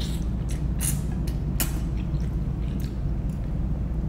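A person chewing a mouthful of noodles: a run of short, wet mouth clicks and smacks, over a steady low hum.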